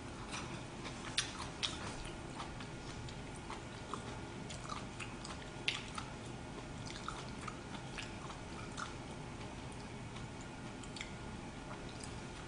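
A person chewing food with quiet, scattered wet mouth clicks and smacks, a few sharper clicks about a second in and again midway.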